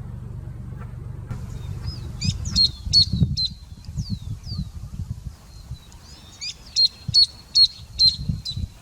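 A small bird's high, sharp chirps and short whistled calls in two quick bouts, starting about a second in, over a low rumble with a few dull thumps.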